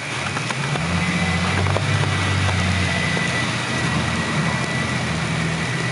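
A low engine hum that comes up within the first second and then holds steady, with a thin steady whine above it.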